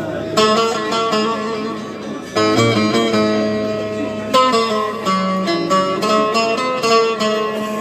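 Music played on plucked string instruments: a melody of sharply struck notes over steady lower tones.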